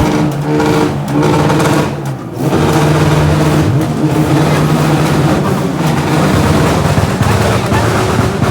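Motor vehicle engine running held at revs, with a steady buzzing pitch that dips briefly about two seconds in and then picks up again.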